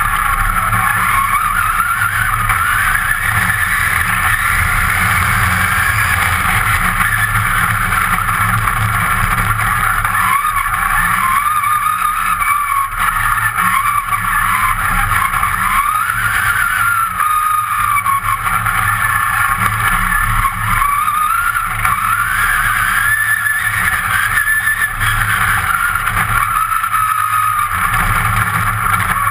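Competition car's engine heard from inside the stripped cockpit, revving up and down repeatedly as the car is driven hard, over a steady low rumble.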